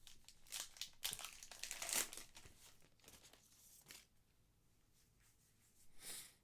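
Trading card pack wrapper crinkling and tearing as it is opened and handled, the loudest crackling in the first two and a half seconds, softer rustles after, and one more brief crinkle near the end.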